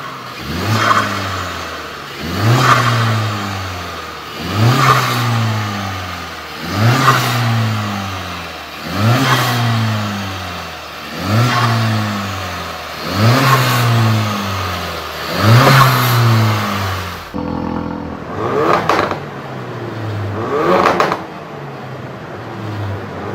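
Four-cylinder car engine being free-revved, one quick blip about every two seconds, each rev climbing fast and dropping back slowly to idle. About three quarters of the way through the sound changes, with two more blips and then a steady idle.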